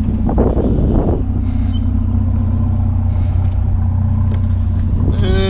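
Vehicle engine running with a steady low drone while driving, with a brief rush of noise about half a second in.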